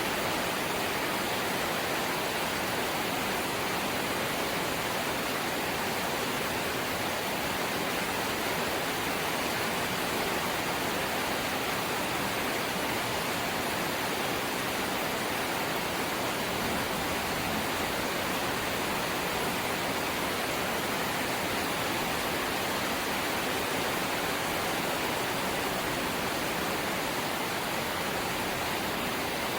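Steady rain falling on a corrugated zinc sheet roof, an even hiss that does not change.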